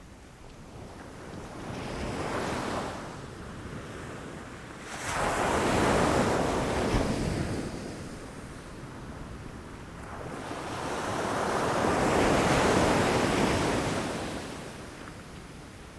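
Ocean waves breaking against shoreline rocks: the surf rises and falls in surges, with a small swell, then a sudden loud crash about five seconds in, and another long swell of rushing water building and fading near the end.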